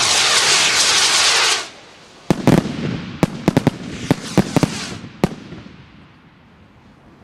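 Fireworks: a loud, dense hissing crackle that cuts off suddenly about a second and a half in, followed by a quick run of about ten sharp bangs over some three seconds that then die away.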